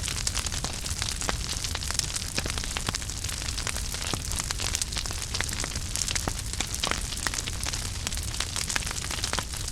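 Wood fire burning in a fireplace, crackling with many small irregular pops and snaps over a steady hiss and low rumble of the flames.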